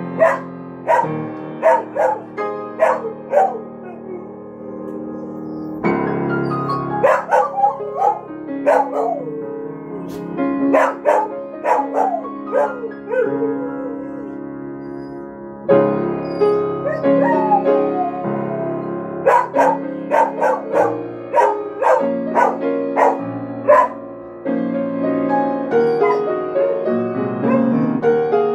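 Solo piano playing a slow piece while a dog sings along with wavering howls and yips at several points.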